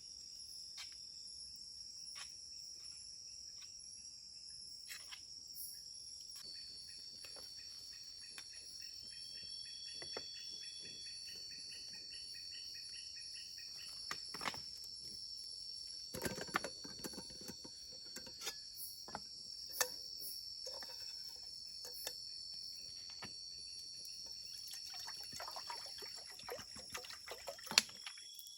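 A steady, high-pitched chorus of forest insects, with a pulsing trill joining in for a few seconds. Scattered clicks and knocks of things being handled come through it, more of them about halfway through and near the end.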